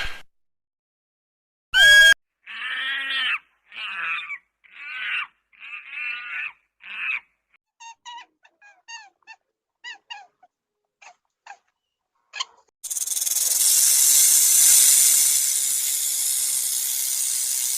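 A sequence of different recorded animal calls: two short loud calls, then five longer pitched calls, then a run of short high chirps. For the last five seconds there is a loud, steady hiss.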